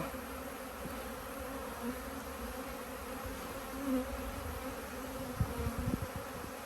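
A dense, steady buzz of many honey bees flying around an opened hive, the sound of an agitated, defensive colony disturbed during inspection. A few dull low bumps come near the end.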